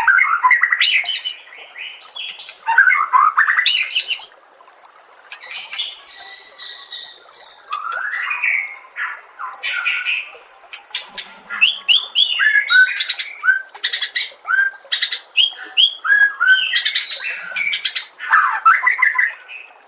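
White-rumped shama (murai batu) singing a long, varied song of loud whistles, sweeping notes and quick runs of short repeated notes, broken by a brief pause about four seconds in.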